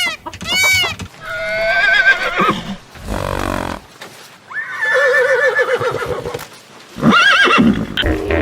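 Animal calls: a short cry at the start, then three long, wavering pitched cries.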